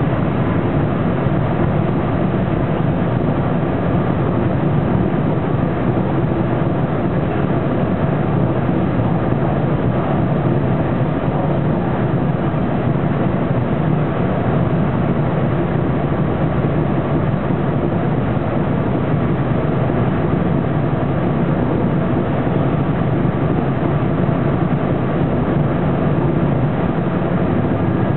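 Detroit Diesel Series 50 four-cylinder diesel and Allison B500R transmission of a Neoplan AN460 articulated bus running under way, heard from inside the passenger cabin: a steady engine drone with a few held tones over it.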